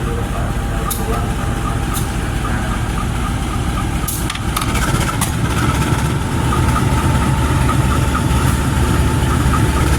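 Heavy diesel engine running steadily, its low rumble growing louder about halfway through, with a few sharp clicks over it.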